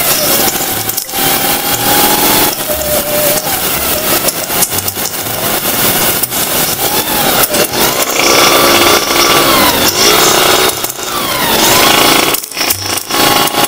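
A group of two-stroke motorcycles running at a standstill, their engines revving up and down several times in the second half.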